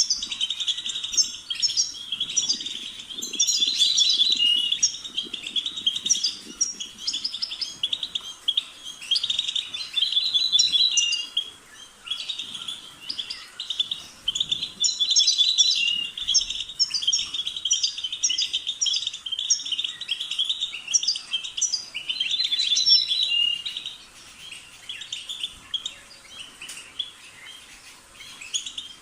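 European goldfinch singing: fast runs of high twittering and tinkling notes in phrases of a few seconds, with short pauses between them and a quieter stretch near the end.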